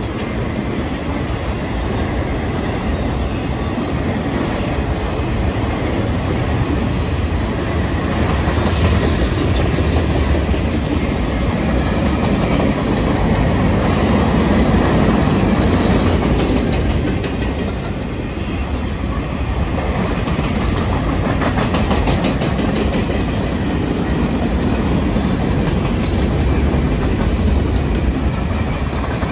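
Freight cars (autoracks, covered hoppers and tank cars) rolling past close by. Their steel wheels on the rail make a steady loud rumble, with stretches of rapid clickety-clack as the wheels pass over the rail joints, around a third and two thirds of the way through.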